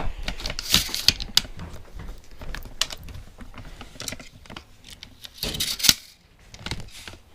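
Scattered light clicks, taps and rustling of someone moving and handling gear, loudest about a second in and again near six seconds.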